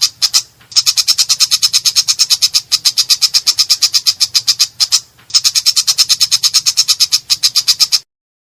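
Long-tailed shrike (cendet) giving a harsh, rough rattling call: a fast, even train of about ten grating notes a second. It breaks off twice briefly and cuts off suddenly near the end.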